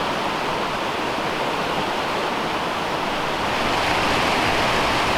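Steady rushing of a waterfall, a continuous noise that grows slightly louder past the middle.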